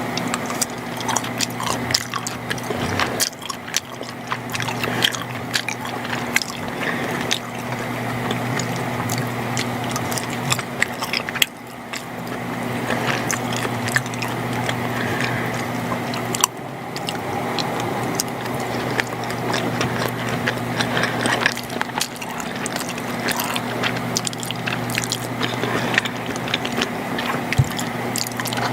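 Close-miked wet, sticky sounds of mac and cheese, with many small sharp clicks, over a steady low electrical hum.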